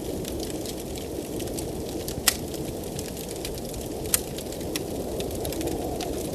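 Wood fire crackling in a fireplace, with frequent small ticks and two louder pops, a little over two seconds in and about two seconds later, over a steady low rush of blizzard wind.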